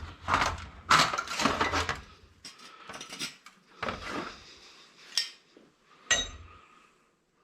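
Irregular clinks, knocks and clatter of hard metal and plastic parts being handled as an Xbox console is taken apart, densest in the first two seconds, then single knocks spaced about a second apart, dying away near the end.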